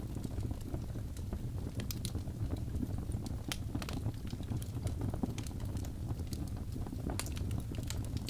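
Wood logs burning in a fireplace: a steady low rumble of flame with sharp crackles and pops from the wood coming at irregular moments.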